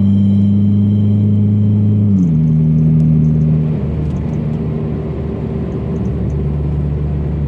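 Turbocharged Chevy Sonic's four-cylinder engine running through a custom exhaust with one catalytic converter deleted and a turndown pipe, a steady low drone. The pitch drops twice, about two seconds in and near four seconds, and the sound gets a little quieter after the second drop.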